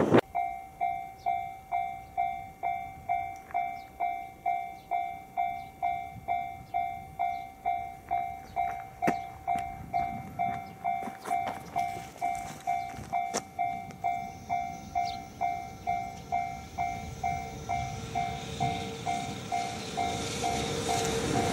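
Railway level crossing warning bell ringing, an even two-tone ding about twice a second, while a train approaches: its running noise rises over the last few seconds.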